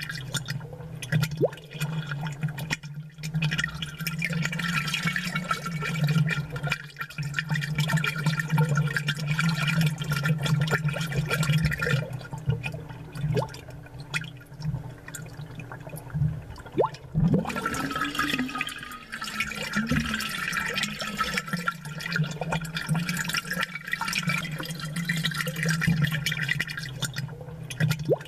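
Aquarium water bubbling and gurgling from air bubbles, amplified close up, with many small pops and a steady low hum underneath.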